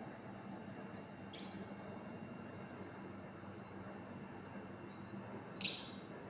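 Small bird giving faint, short high chirps every second or so, with a sharper high-pitched call about a second and a half in and a louder one near the end, over a steady low hum.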